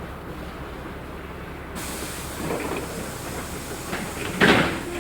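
Cabin noise of a LiAZ-6213.65 articulated city bus under way: a steady rumble, joined about two seconds in by a hissing rush. A loud, short noise comes near the end.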